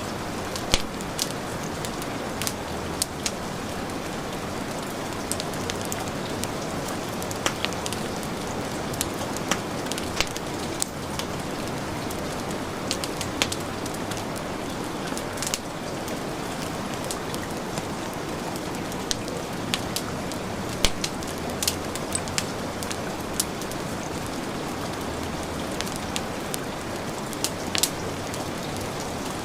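Steady heavy rain with a wood fire crackling, its sharp pops and snaps scattered irregularly over the rain.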